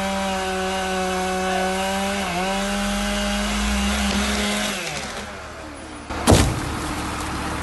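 Two-stroke chainsaw running at high revs cutting into a dead tree, bogging briefly about two seconds in, then dying away around five seconds. About a second later comes a single sharp, loud knock, the loudest sound here.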